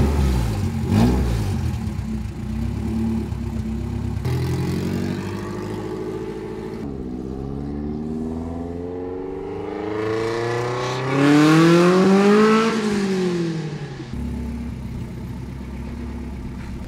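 Car engine starting with a loud burst, then running and revving, its pitch climbing for several seconds to the loudest point before dropping back to a steady run. The exhaust is missing its mid pipe, which makes it loud.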